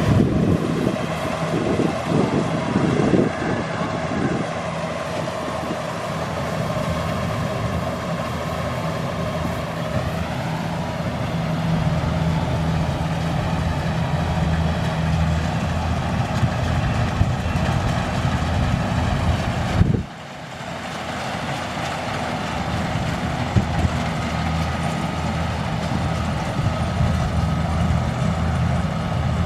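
Kubota rice combine harvester running steadily with its engine and threshing machinery going, with some irregular clatter in the first few seconds. The sound drops sharply for a moment about two-thirds of the way through, then comes back.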